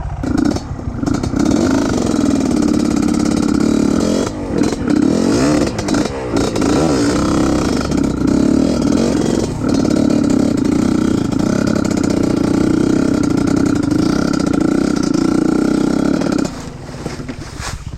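Trail motorcycle engine revving hard. Its pitch dips and rises several times a few seconds in, then it drops back near the end.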